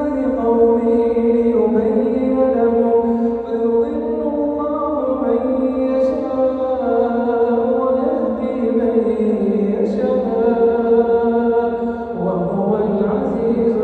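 A man's solo voice chanting Quran recitation in melodic tajweed style, drawing out long held notes that step slowly up and down in pitch.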